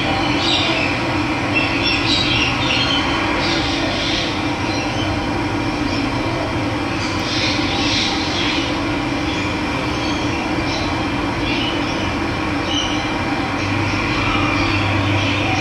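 Steady rush of running water with birds chirping now and then over it.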